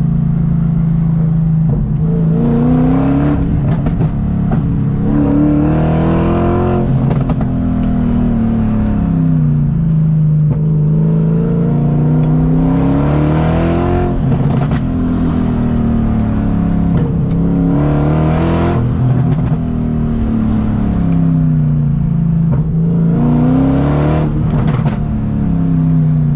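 Straight-piped BMW M60 V8 in an E30 under way, its exhaust note rising and falling about four times as it accelerates and lifts off between corners.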